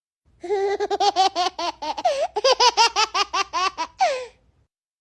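A baby laughing in a quick run of short, high-pitched 'ha' syllables, about six a second, for some four seconds, ending on a falling note.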